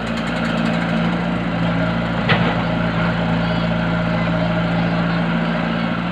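An engine running steadily at a constant speed, with one sharp knock about two seconds in.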